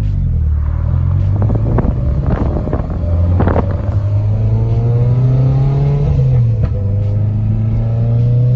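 Car engine running under way, a steady low drone with a few short knocks in the first half and the revs rising and falling in the middle.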